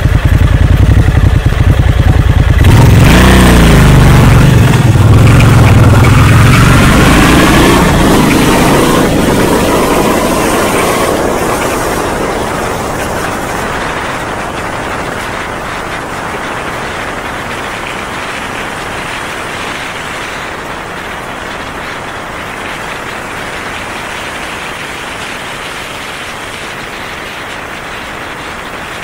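Honda Magna 250's V-twin engine idling with a pulsing beat, then revving about three seconds in as the motorcycle pulls away, its pitch rising as it accelerates. The engine sound then fades steadily over the next ten seconds or so, leaving a lower steady background noise.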